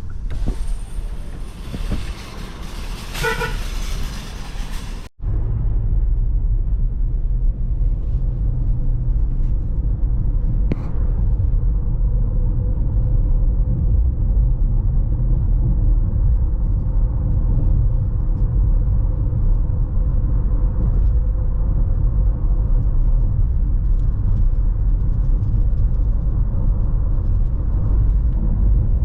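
Car driving, heard from inside: a steady low road and engine rumble. For the first five seconds a loud rushing hiss lies over it, with a short horn toot about three seconds in, and the hiss cuts off suddenly.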